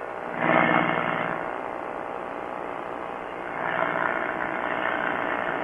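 Quicksilver ultralight airplane's engine and propeller droning steadily in flight. The note swells louder twice, about half a second in and again near four seconds.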